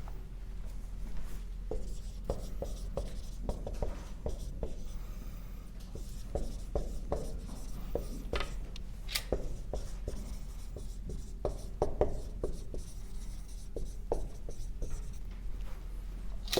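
Handwriting: a run of short, irregular scratching and tapping strokes, as of writing on a board, over a steady low hum.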